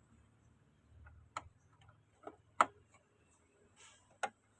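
Several sharp, separate clicks and ticks as the plastic housing of a washing machine's water level sensor is handled and pried open, the loudest about halfway through.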